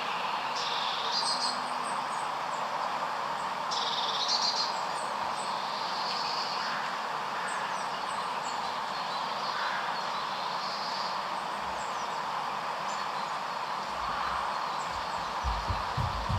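Small birds chirping and twittering in short bursts over a steady background hiss, with a few low bumps near the end.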